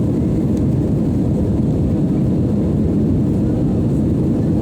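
Jet airliner producing a steady low rumble, even in level, with no distinct engine whine.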